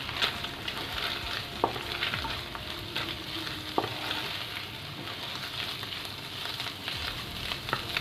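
Boiled chicken and scrambled egg frying in hot oil with a steady sizzle while a spatula stirs them, clicking against the pan a few times.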